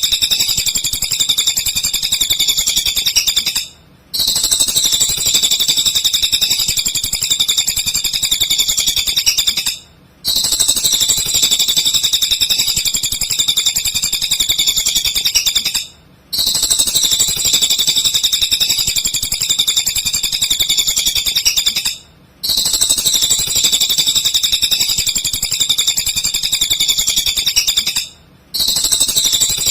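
Cililin songbird singing a fast, dense run of high-pitched chirps and trills in a looped recording: each block lasts about six seconds and is followed by a brief silence before it repeats.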